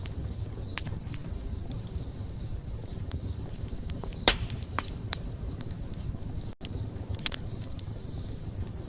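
Wood fire burning: a steady low rumble of flames with scattered sharp crackles and pops from the burning wood. The loudest pop comes about four seconds in. The sound cuts out for a split second about two-thirds of the way through.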